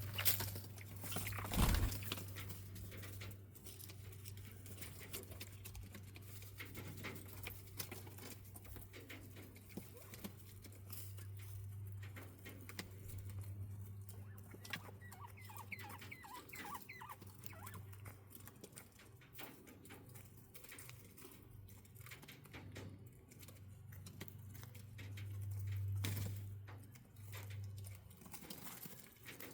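Quail scratching and pecking about in their aviary, a steady patter of small ticks and rustles, with a short run of quick chirps about halfway through. A steady low hum runs underneath, and there is a single knock near the start.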